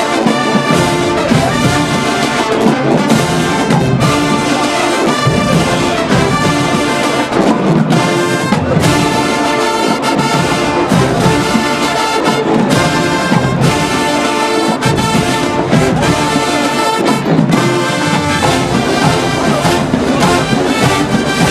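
College marching band playing a loud brass-heavy number, trombones and trumpets over a steady drum beat.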